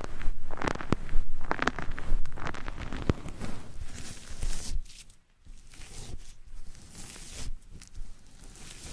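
Close-miked ASMR trigger sounds: dense crackling, scratchy rustles and clicks. They are louder in the first half and drop to softer rustling swells after about five seconds.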